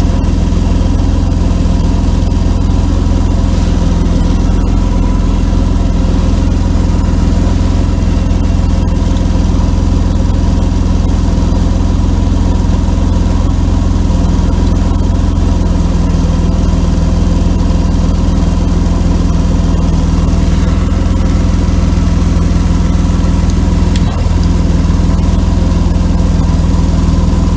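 1992 Mercedes-Benz W124 300E's straight-six engine idling steadily, heard through its exhaust, with a leak just ahead of the muffler that has been temporarily patched and is still faintly audible. The owner takes it to mean the pipe section needs replacing.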